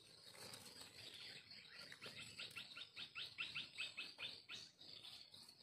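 A bird calling faintly in a quick run of short, high notes, about six a second for a couple of seconds starting about two seconds in, over a faint steady insect drone.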